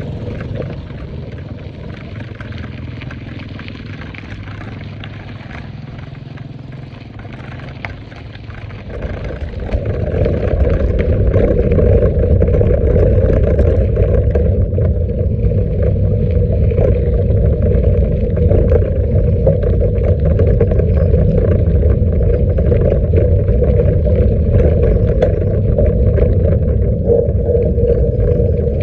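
Motorcycle engine running, growing louder about nine to ten seconds in and then holding steady.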